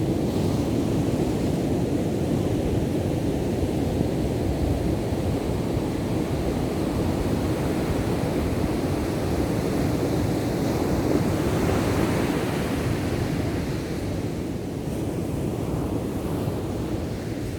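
Ocean surf breaking and washing on the beach: a steady, continuous rush.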